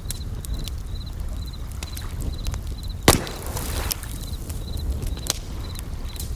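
Campfire crackling with scattered sharp pops, and one loud pop about three seconds in followed by a brief hiss. Behind it bell crickets chirp in short repeated trills about twice a second, over a low steady rumble.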